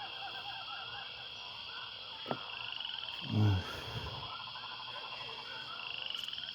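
A chorus of frogs calling: many short calls repeating throughout over a steady high background hum. There is a single click a little after two seconds and a brief low voice-like sound about three and a half seconds in.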